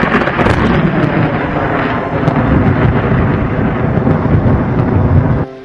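Thunderstorm sound effect: a loud, heavy thunder rumble that cuts off abruptly near the end.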